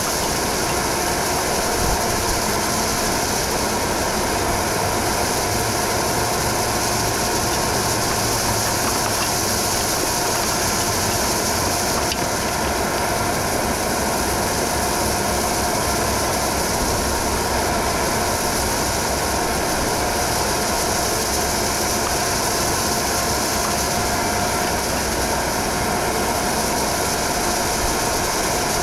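Heavy construction machinery running steadily: a constant diesel rumble with a steady mechanical whine and hiss over it.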